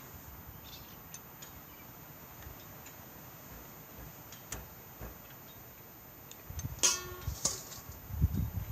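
Faint scattered ticks and handling noises, then near the end a sharp metallic clink with a brief ring, a second click and a few low knocks: hand tools being picked up and set against metal.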